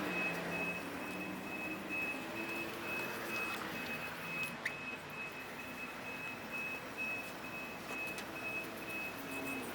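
A vehicle's reversing alarm beeping steadily, a little over two high-pitched beeps a second, over a low hum of engine and traffic.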